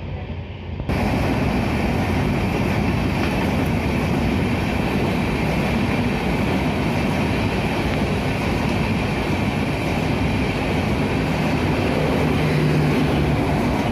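An Indian Railways express train's passenger coaches running through a station on the rails: a steady, loud rolling of wheels on track. It starts abruptly about a second in.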